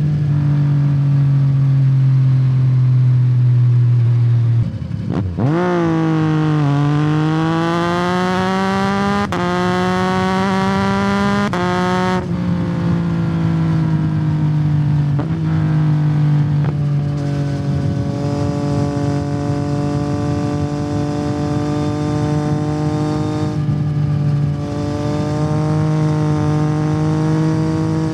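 2021 Yamaha MT-09's three-cylinder engine through a Yoshimura R77 carbon exhaust. It runs at a steady cruise, then about five seconds in its note climbs in three stages, with short breaks between them, as the bike accelerates through the gears. It then drops back to a steady cruise.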